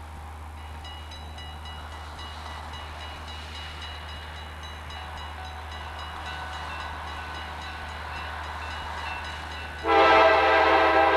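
EMD GP9 diesel locomotives approaching, their rumble slowly growing, with a grade-crossing bell ringing in a fast, even rhythm. About ten seconds in, the lead locomotive's air horn sounds loudly as a multi-note chord.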